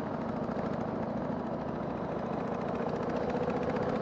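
Harley-Davidson Sportster 883's air-cooled V-twin engine running steadily while the bike is ridden, over a steady rush of road and wind noise.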